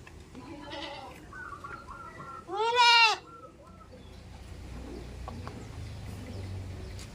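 A goat bleating: one loud wavering bleat about three seconds in, after a fainter call near the start.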